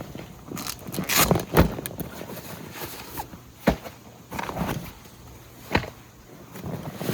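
Irregular footsteps with crunching and rustling on the ground, several sharp steps spaced unevenly.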